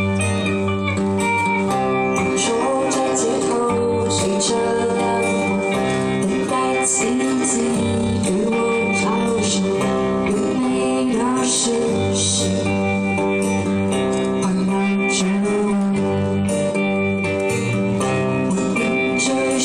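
Live pop music: a guitar-led band accompaniment, with a singing voice wavering over it through the middle.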